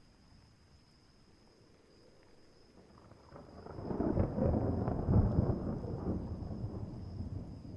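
A roll of thunder: a deep rumble swells up about three seconds in, is loudest around the middle, and slowly dies away.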